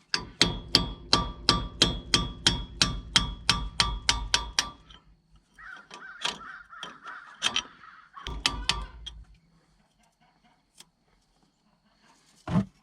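Hammer rapidly striking steel on the truck's rear hub nut, worked without the proper socket: about four ringing clangs a second for nearly five seconds, then a shorter burst of blows after a pause. A single loud knock comes near the end.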